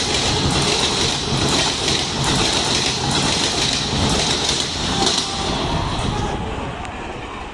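Express train passenger coaches running past at speed: a dense rumble and rattle of steel wheels on the rails that drops away quickly about six seconds in as the last coach goes by.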